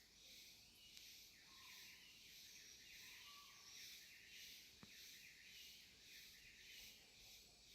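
Faint chorus of cicadas: a high buzzing that swells and fades about twice a second, with two brief whistled notes in the first half and a single click near the middle.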